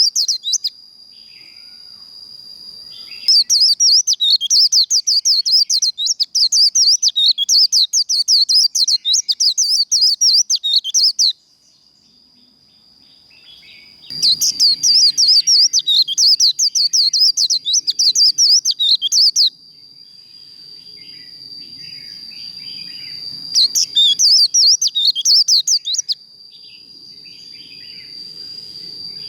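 White-eye (vành khuyên) singing its rapid, twittering 'líu' song in long bursts of several seconds with short pauses between, over a steady high thin whine.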